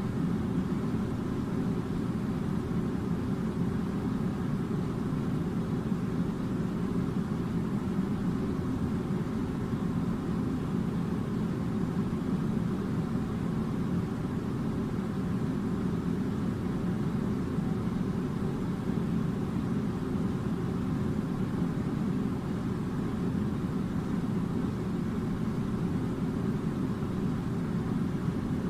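Air conditioner running with a steady low hum and rushing air, with faint steady tones in the hum.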